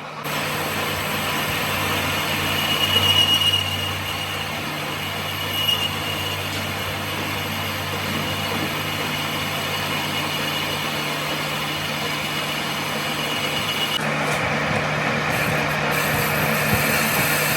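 A workshop machine running steadily with a high-pitched whine over a low hum, briefly louder about three seconds in.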